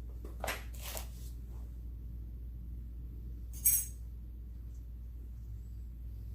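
Small metal parts handled on a work table: a couple of soft handling sounds near the start, then one sharp metallic clink, like a small part set down or dropped, a little past halfway. A steady low hum runs underneath.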